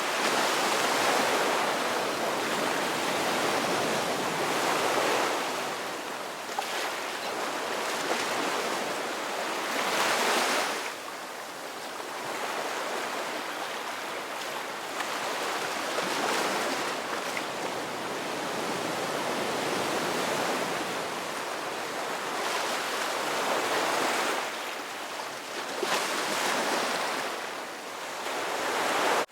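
Ocean surf: waves breaking and washing in, a steady rushing that swells and eases every several seconds.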